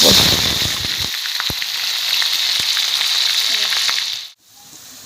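Sliced onions sizzling loudly in hot oil as they start to fry for beresta, with scattered small pops. About four seconds in the sizzle drops off suddenly to a much quieter hiss.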